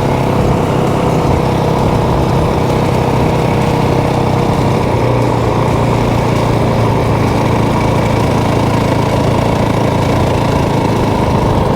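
Motorcycle engine running steadily, with an even low hum and no revving.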